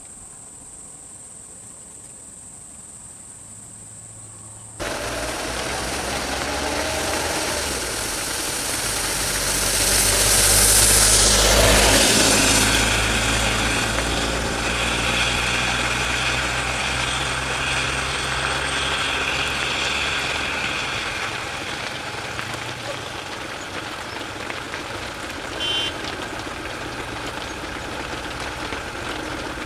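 Crickets chirring steadily, cut off suddenly about five seconds in by a loud vehicle engine running. The engine grows louder to a peak about eleven seconds in, as if passing close, then carries on steadily.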